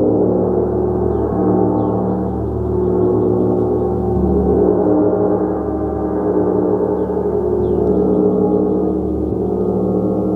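A large gong played continuously, giving a dense, sustained wash of many overlapping tones that swells and ebbs in slow waves.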